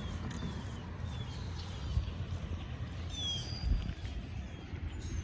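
Outdoor ambience: a steady low rumble, with short, high, falling bird chirps repeating every second or so.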